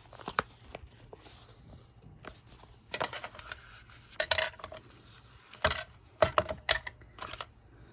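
Small metal stationery (paper clips and a stapler) handled on a work surface, giving scattered sharp metallic clicks and clinks, with a few quick clusters in the second half.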